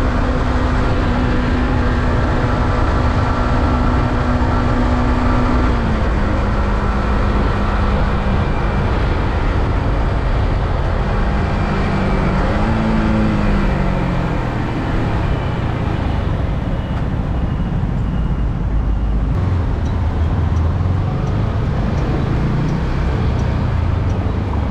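Yamaha R15M's 155 cc single-cylinder engine running through its stock exhaust while riding, with heavy wind rush on the microphone. The engine note holds steady, drops about six seconds in, then falls in several glides around the middle as the bike slows, and runs lower for the rest.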